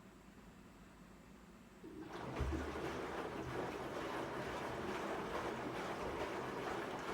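Sharp ES-S7B fully automatic washing machine starting to run about two seconds in, with a steady rush of water and a low rumble, as of the tub filling.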